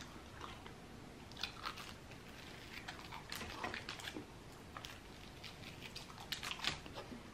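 A person chewing and biting a turkey, cranberry and stuffing sub on a bread roll: faint clusters of short mouth clicks and crackles, with a fresh bite into the roll about six seconds in.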